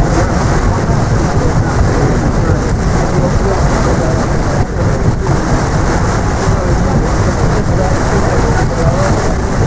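Wind buffeting the microphone on a ship's open deck: a steady, loud, deep rumble, with faint voices underneath.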